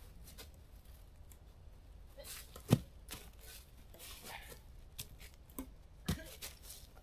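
Scattered light clicks and rustles, with two sharper knocks about three seconds apart, the first the loudest.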